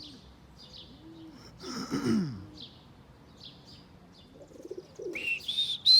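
Pigeons cooing in short low repeated calls, with small birds chirping, and a louder burst about two seconds in. Near the end a person starts whistling, short clear whistles rising in pitch, the flyer's whistle for calling his flying pigeons down.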